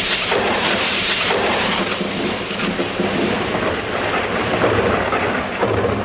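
Thunder rolling over steady rain, a long loud rumble that swells unevenly and eases off near the end.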